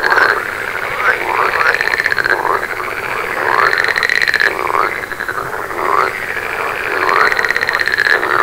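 A chorus of frogs croaking. The calls overlap at different pitches, and a longer call comes round every second or two.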